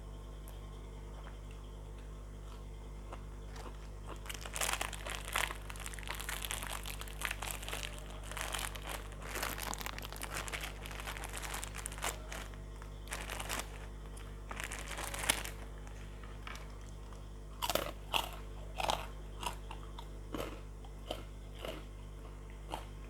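Close-up chewing of crunchy fried food: a long stretch of dense, continuous crunching, then separate crunches spaced about half a second apart near the end. A steady low hum runs underneath.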